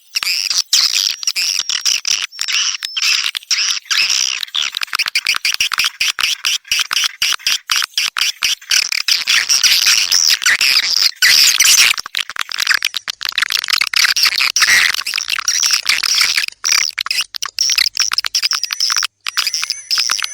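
Swiftlet calls: a dense, continuous twittering of many high chirps, the kind of swiftlet sound played in swiftlet houses to lure the birds in to nest.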